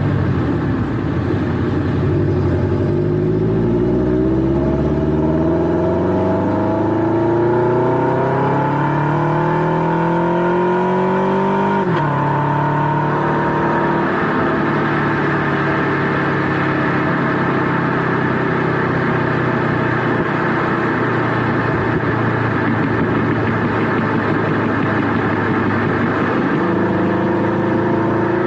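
Toyota GT86's 2.0-litre flat-four through a Blitz Nur-Spec R aftermarket exhaust, revs climbing steadily for about twelve seconds, then dropping sharply and holding steady, with a slight rise near the end.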